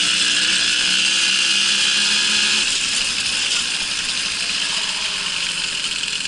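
Babetta moped's small two-stroke engine running steadily under way, with a buzzing hum and a strong hiss. About two and a half seconds in, the engine eases off a little and gets slightly quieter.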